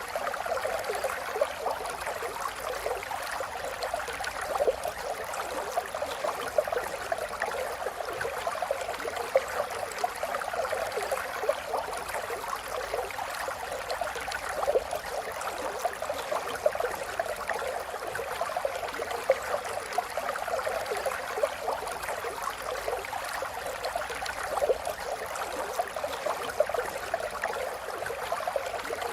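A river flowing steadily, with a constant rush of water and many small splashes and gurgles over the top.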